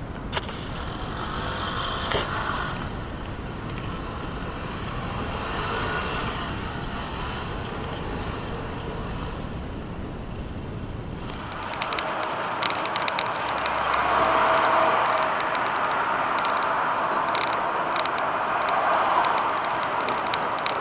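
Steady road and engine noise of a moving car, with two sharp knocks in the first few seconds. About two thirds of the way in the noise abruptly changes character, as a different car's drive takes over.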